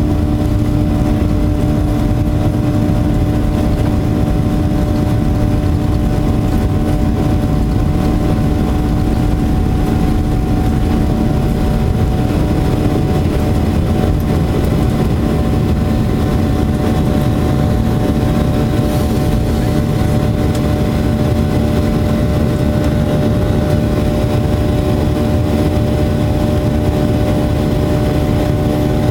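Boeing 737-800's CFM56-7B jet engines heard from inside the cabin as a steady drone with rushing noise and a low hum. The hum weakens about eleven seconds in.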